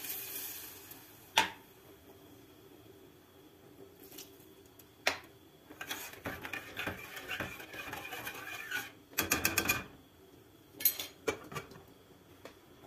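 Kitchen clatter: dishes and cutlery knocking and clinking, with sharp single knocks, a stretch of ringing clinks in the middle and a quick run of clicks after it. Frying hiss fades out in the first second.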